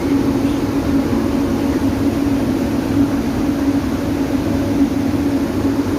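EC fans running steadily at full speed: a constant hum at one pitch over the rush of air being moved.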